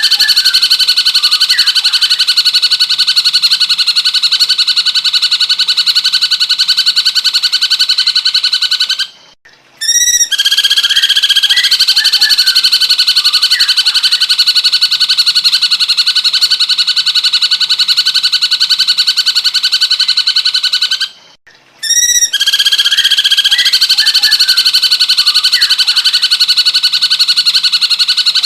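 Recorded song of a cucak cungkok bird played as a training (masteran) track: a long, loud, rapid buzzy trill held at a steady pitch. It breaks off twice, about nine and twenty-one seconds in, for a brief pause ending in a short rising chirp, then resumes.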